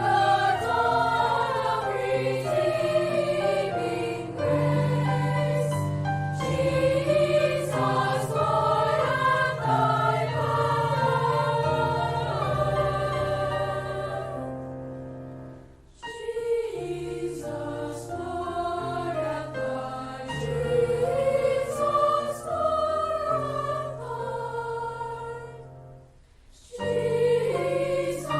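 A choir singing sustained chords over a held low part, with two short breaks between phrases, about halfway through and near the end.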